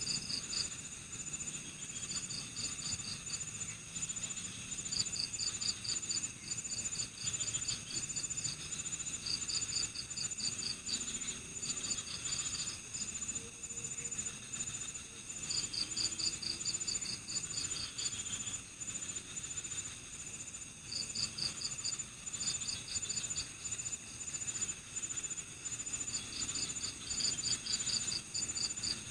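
Night chorus of crickets: one steady high-pitched trill runs throughout, while another chirps in short rapid pulse trains about a second long, repeating every second or two.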